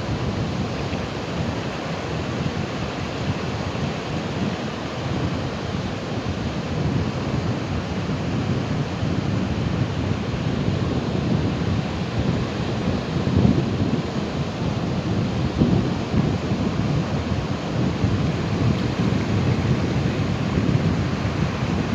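Ocean surf: a continuous, deep rush of breaking waves that swells a little in loudness now and then.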